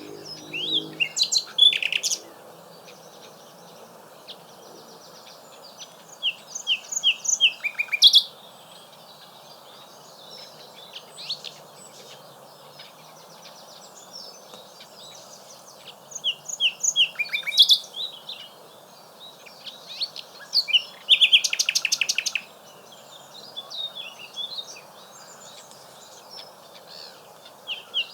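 Common nightingale singing: loud phrases of whistled sweeps and fast runs of repeated notes, each phrase a second or two long, with pauses of several seconds between phrases.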